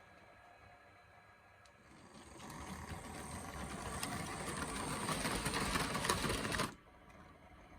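H0 scale model train running on the layout's track, its motor and wheels rattling and clicking and growing steadily louder as it nears, then cutting off suddenly near the end.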